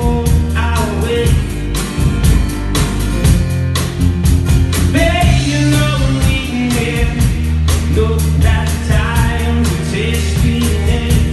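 Rock song played by a band: a steady drum beat, bass and guitar under a wavering sung melody line.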